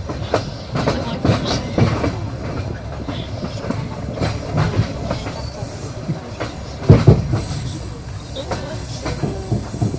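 Railway carriage wheels clattering over rail joints, with two loud knocks close together about seven seconds in.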